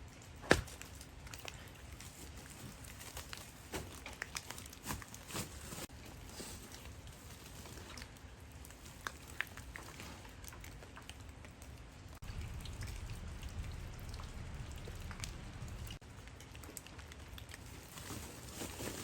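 Rain falling, with scattered drops tapping and dripping on surfaces and one sharp knock about half a second in. A low rumble comes in for a few seconds past the middle.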